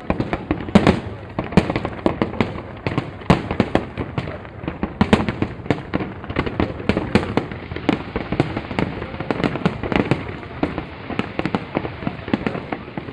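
An aerial fireworks display: a rapid, unbroken run of bangs and crackles, several sharp reports a second with uneven loudness.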